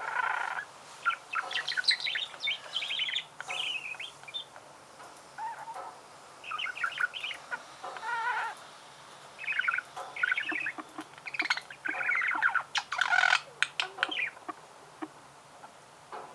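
Budgerigar warbling: phrases of quick chirps and chatter separated by short pauses, falling quiet shortly before the end.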